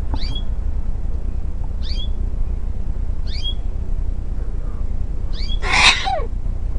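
Short, high bird-like chirps repeating every second or two, with one louder, harsh squawk about six seconds in, over a steady low rumble.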